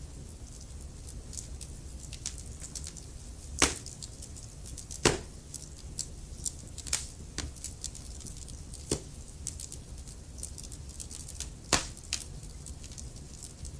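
Wood fire burning in a fireplace: a low steady rumble of flame with irregular crackles from the logs and three louder pops, about four, five and twelve seconds in.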